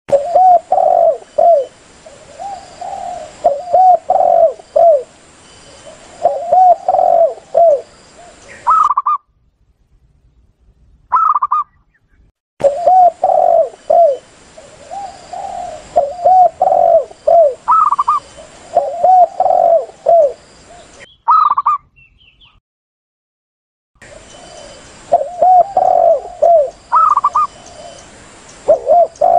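Spotted doves and zebra doves cooing: phrases of low coos repeated over and over, with a few higher, shorter notes among them. The calls come in three stretches, broken twice by a few seconds of silence.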